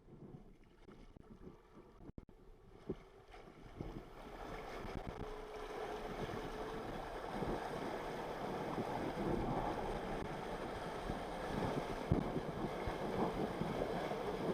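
Jet ski running with the rush of water and wind, quiet at first and then building up about four seconds in and holding steady.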